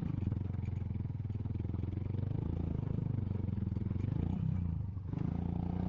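Single-cylinder motorcycle engine running at low revs with a steady pulsing beat, its speed rising and falling slightly a couple of times.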